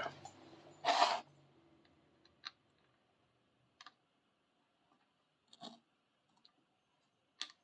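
Small tripod parts being handled: a short scrape about a second in, then a few faint, widely spaced clicks as a piece is bent down and a nut fitted.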